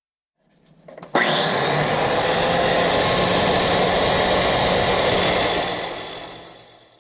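Power tool with an abrasive cut-off wheel cutting into steel to take off the old leaf-spring hanger. It starts suddenly about a second in, runs loud and steady with a high whine, and eases off near the end.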